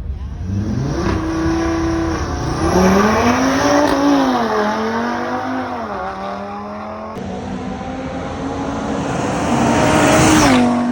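A drag-racing car accelerating hard down the strip, its engine note climbing and dropping back at each gear change, loudest about ten seconds in as it goes past.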